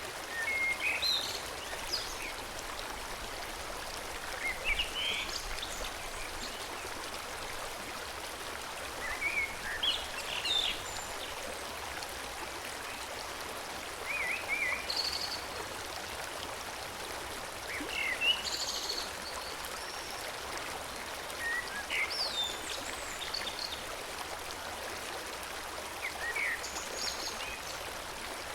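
Forest stream flowing steadily, with a songbird singing short, high chirping phrases every few seconds.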